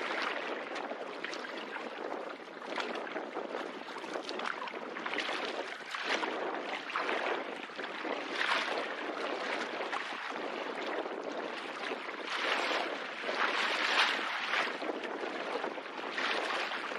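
Canoe paddle strokes swishing and splashing through the water every second or two, over steady wind noise on the microphone.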